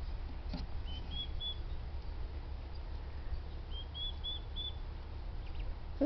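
A bird fussing in two short runs of three or four high chirps, about a second in and again around four seconds in, over a steady low background rumble.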